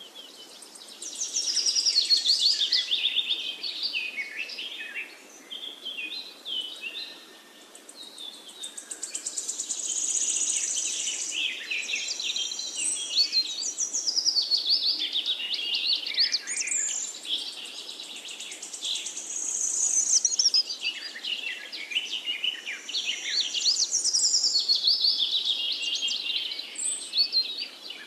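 Birds singing and chirping, with many overlapping high calls and fast trills.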